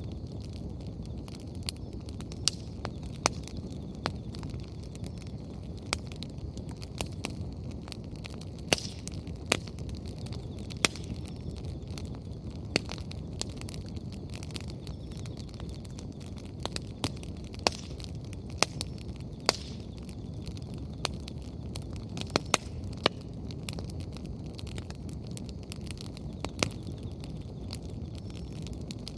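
Wood fire burning freshly added firewood: irregular sharp crackles and pops, some much louder than others, over a steady low rushing noise.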